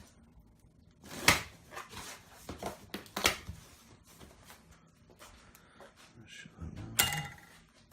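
Cardboard box and packaging being opened and handled: rustling with several sharp knocks, the loudest about a second in, another about three seconds in and one near the end.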